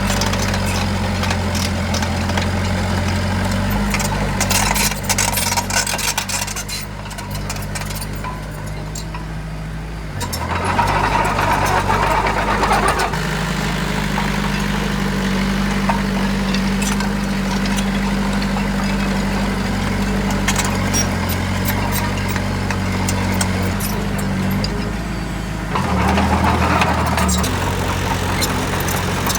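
Heavy construction-machine diesel engine running steadily. It eases off from about six seconds in, then picks up again at about ten and a half seconds and once more near the end.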